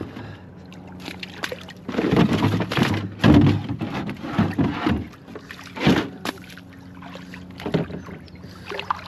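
Canoe noise on the water: a run of rough knocks, scrapes and water noise from the hull and paddle, loudest from about two to six seconds in, over a steady low hum.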